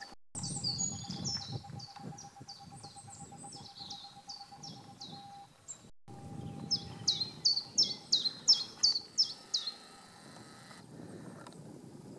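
Small songbird calling: a run of short, high chirps, each falling in pitch, about three a second, repeated in two bursts.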